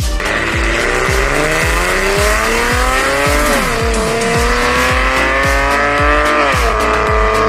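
Dodge Challenger with a titanium full exhaust accelerating. The engine note rises steadily and drops sharply at each gear change, about halfway through and again near the end. Dance music with a steady kick-drum beat plays underneath.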